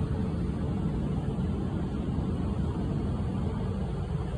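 Tohoku Shinkansen bullet train rolling slowly along the platform track, a steady low rumble of wheels and running gear that eases near the end as the train comes to a stop.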